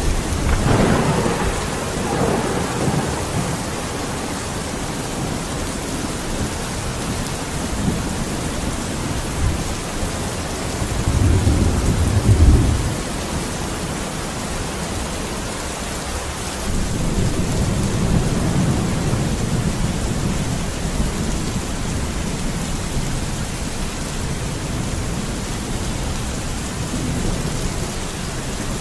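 Steady rain falling, with thunder rolling in deep rumbles three times: near the start, loudest a little before the middle, and again shortly after.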